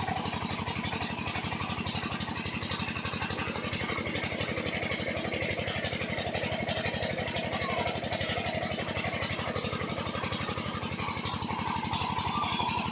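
Diesel engine of a farm water pump set running steadily, its firing beats even and unchanging.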